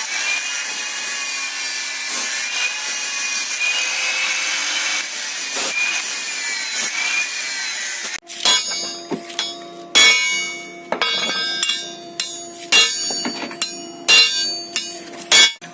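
Angle grinder cutting into a steel flat bar, a steady grinding noise with a slightly wavering whine. About eight seconds in it breaks off, and a series of hammer blows on the steel follows, each ringing, as the cut section is bent up.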